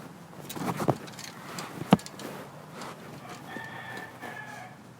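A rooster crowing faintly near the end, after a single sharp knock about two seconds in.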